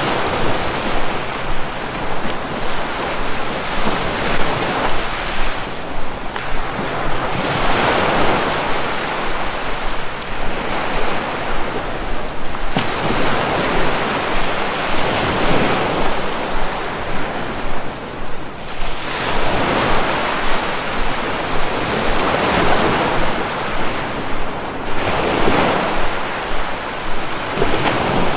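Sea waves breaking on the shore, a continuous wash that swells and ebbs every few seconds.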